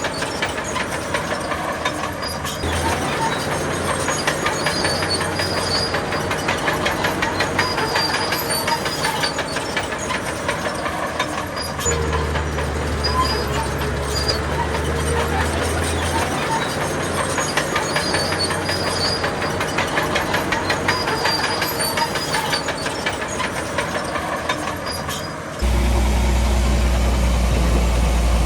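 Crawler bulldozer at work: diesel engine running under load with the fast, steady clatter of its steel tracks and a few brief high squeals. About three seconds before the end the clatter stops abruptly, leaving a louder, steady low engine drone.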